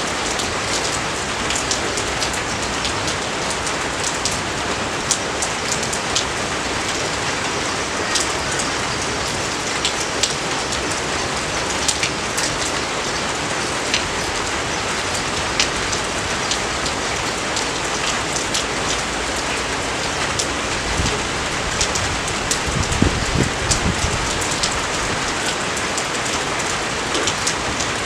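Steady rain falling, a constant hiss with many sharp, close drop ticks. About three-quarters of the way through, a low rumble swells briefly and fades.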